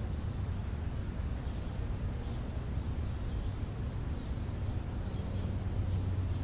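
Outdoor ambience: a steady low rumble with faint, scattered small-bird chirps every second or so.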